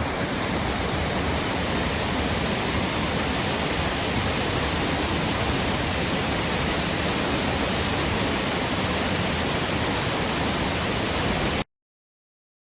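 Tangle Falls, a multi-tiered waterfall, rushing in a steady, loud roar of falling water that cuts off suddenly near the end.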